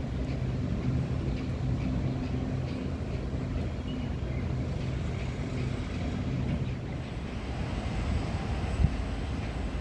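Taoyuan Airport MRT train at the station: a steady low rumble with a low hum that fades out a little past halfway, and a single knock near the end.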